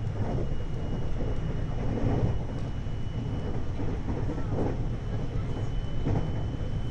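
521 series electric multiple unit running at speed: a steady rumble of wheels on rail with a thin, steady high tone above it and a few light rail-joint knocks.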